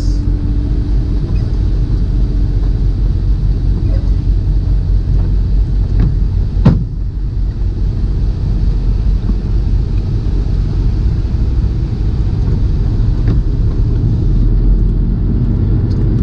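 Tractor-trailer's diesel engine and cab rumbling steadily, heard from inside the cab as the truck moves off, with one sharp knock about seven seconds in.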